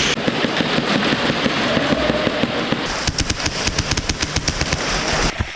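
Airsoft guns firing rapid strings of shots in a close-range exchange, the shots coming fastest and sharpest in the second half.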